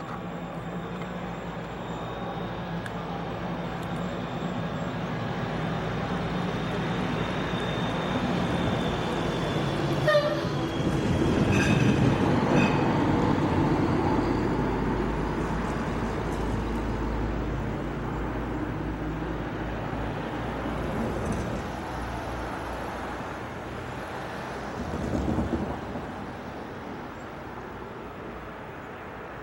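Iowa Pacific diesel locomotive 515 passing, its engine running and wheels rolling on the rails. It grows louder to a sharp clank about ten seconds in, is loudest just after, then fades away with a brief louder rumble near twenty-five seconds.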